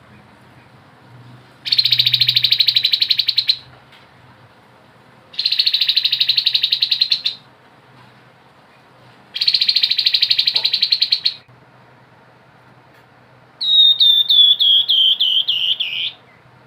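Grey-headed babbler singing: three fast, buzzing rattle-trills of about two seconds each, followed near the end by a run of about ten notes that fall in pitch.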